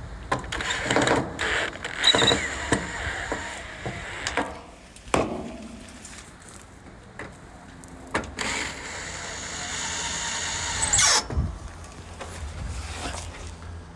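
A cordless drill running in several short bursts amid clatter, ending in a whine that falls in pitch about eleven seconds in.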